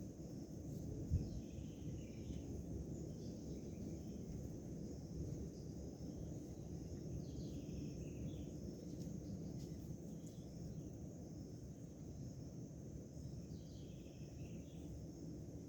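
Outdoor rural ambience: a steady high insect chirring with short bird calls three times, over a low rumbling background noise. There is a single knock about a second in.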